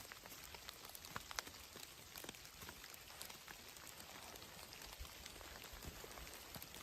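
Faint, steady patter of falling water drops, with scattered sharp ticks of single drops landing.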